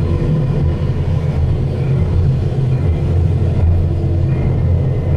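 Steady low rumble of a passenger vehicle in motion, heard from inside the cabin.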